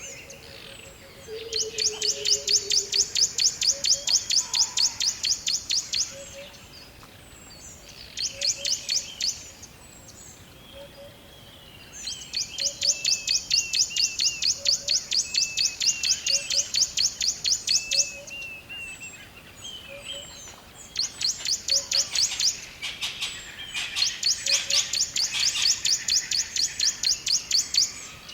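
Forest birds singing: several long runs of rapid, evenly pulsed high-pitched notes, each lasting a few seconds, with shorter chirps between them and a faint low note repeating about once a second underneath.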